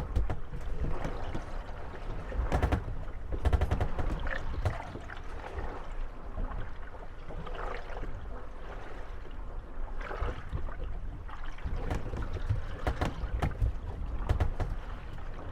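Moored wooden gondolas rocking on the waves, bumping and knocking against each other at irregular moments and creaking, over lapping water.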